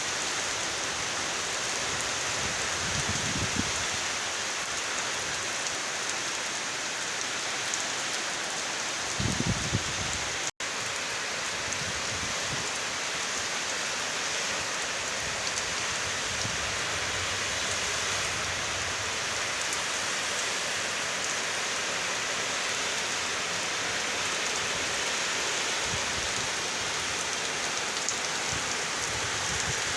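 Steady rain falling, an even hiss without pause, with a couple of low thuds about a third of the way in; the sound cuts out for an instant just after them.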